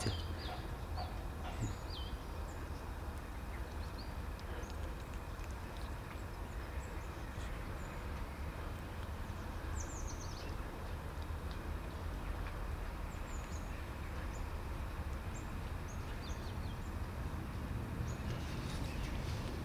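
Steady outdoor background noise with a low rumble, with scattered faint, short, high chirps.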